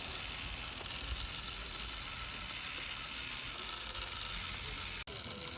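Steady sizzling hiss of a whole chicken roasting on a rotisserie spit over a wood fire.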